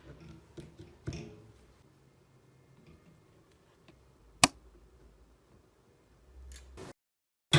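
A few small clicks and taps of parts being handled during the fan's reassembly, with one sharp click about four and a half seconds in; the sound drops to dead silence briefly near the end.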